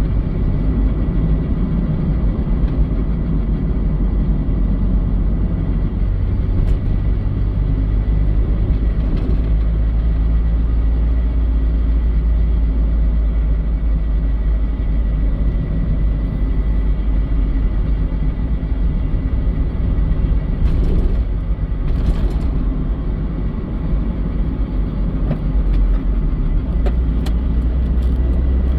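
Mazda Eunos Roadster NA8C's 1.8-litre four-cylinder running with a steady low rumble, recorded for an abnormal noise the owner describes as something rubbing or dragging. A couple of brief clicks come about two-thirds of the way through.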